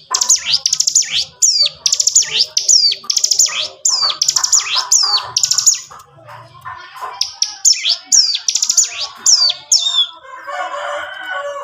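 A ciblek gunung, a small prinia, singing hard in fast runs of sharp, high, down-slurred notes. The runs pause briefly about halfway through, start again, and give way to a softer, lower chatter near the end.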